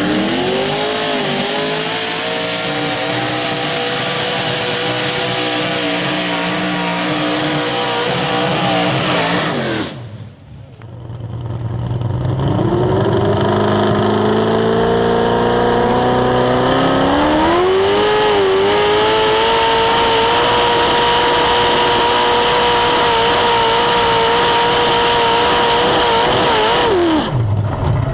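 Modified garden tractor pulling engine run at high revs: it climbs and holds a steady high pitch, falls off and dips about ten seconds in, then revs up again and holds high until it drops back near the end.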